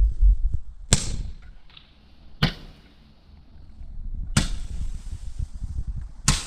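Standard Fireworks Galactic Roman candle firing its shots: four sharp pops about two seconds apart, each with a brief hiss as the star leaves the tube.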